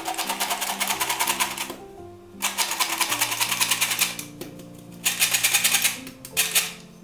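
Quick, rhythmic strokes of a kitchen utensil, many per second, in three bursts of one to two seconds and a short fourth burst near the end, over soft instrumental background music.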